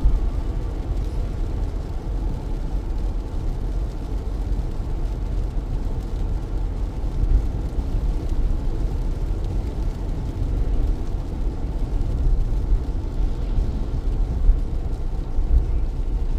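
Car driving through heavy rain on a wet city road: a steady deep rumble of tyres and engine mixed with rain noise on the car, with a few brief louder moments.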